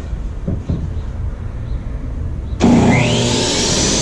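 Ridgid R4513 table saw's 15-amp motor switched on about two-thirds of the way in, its whine climbing steadily in pitch as the blade spins up under the soft start, then running at full speed.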